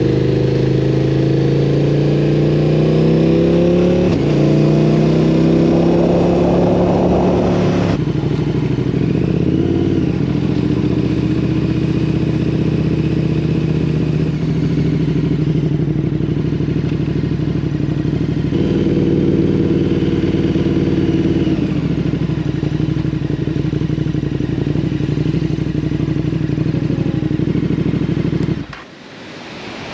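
KTM 1290 Super Duke's V-twin engine running on the move. Its note climbs as it accelerates over the first few seconds, then holds a steadier cruising pitch with a few small shifts, and cuts off abruptly near the end.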